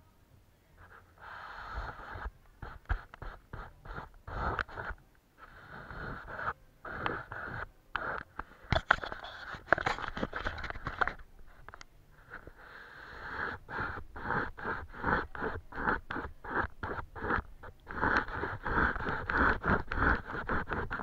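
Paintbrush scrubbing on paper: runs of short, scratchy strokes with brief pauses between them, coming quicker and louder in the last few seconds.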